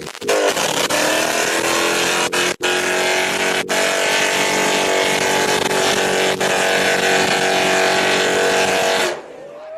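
Car engine revved hard and held at high revs for about nine seconds, then cut off suddenly.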